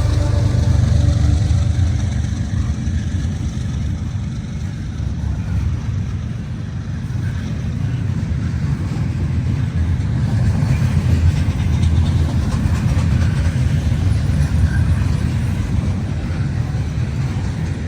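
Freight train rolling past, a steady deep rumble of cars on the rails, swelling slightly around the middle.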